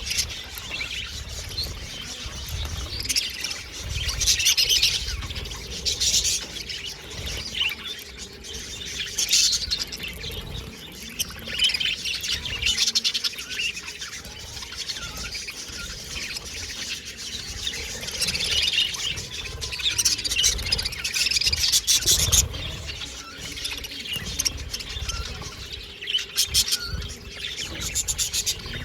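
Budgerigars chirping and warbling in repeated bursts of rapid high chatter.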